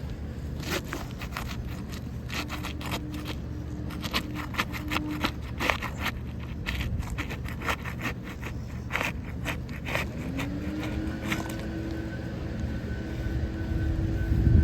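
Irregular short scrapes and clicks over a steady low engine hum. About ten seconds in, an engine tone rises in pitch and then holds.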